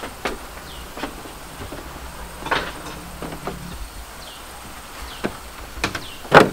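Irregular knocks and clacks of hard objects, about a dozen scattered over several seconds, the loudest one near the end, with a few faint high chirps behind them.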